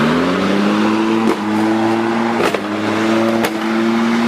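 Petrol lawnmower engine revving up to speed and running steadily, with a few sharp knocks as it hits debris.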